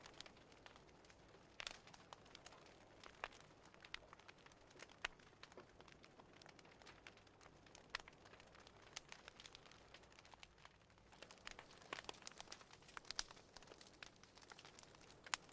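Wood fire crackling in a fireplace, faint, with many small irregular pops and snaps.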